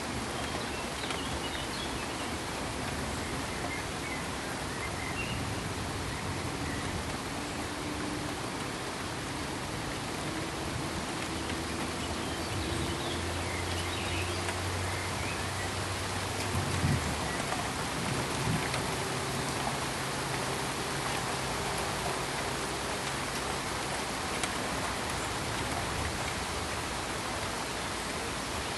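Steady pink noise: an even, rain-like hiss. A faint low hum comes and goes under it in the middle.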